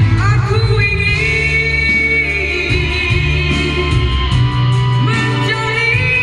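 A voice singing a held, gliding melody over band accompaniment with a pulsing bass line, in a Malay pop duet.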